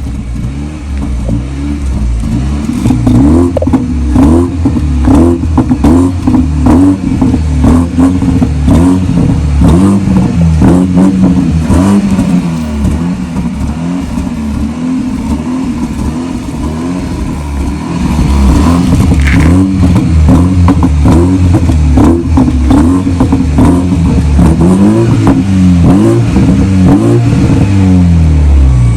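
BMW 320i's turbocharged four-cylinder engine heard through a tuned exhaust with a vacuum valve, revving up and down again and again, with sharp crackles between revs. It gets louder for the last third.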